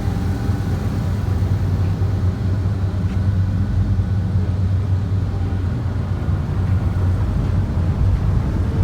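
A ferry's engines running with a steady low drone and a constant hum.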